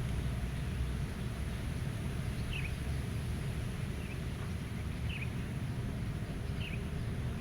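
Steady low wind rumble in open country, with a handful of short, high bird chirps spaced a second or so apart.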